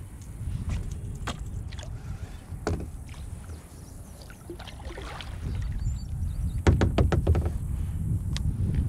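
Handling noises in a fishing kayak: scattered knocks and clicks of gear against the hull, then a quick run of about eight clicks about seven seconds in, over a steady low rumble.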